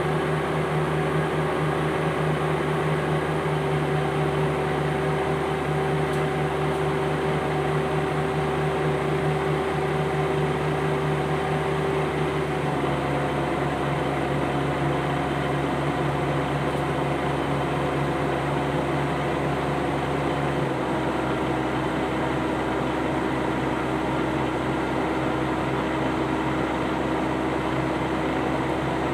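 Komatsu D68ESS bulldozer's diesel engine running steadily under work, its pitch shifting to a new level about a third of the way in and again about two thirds in.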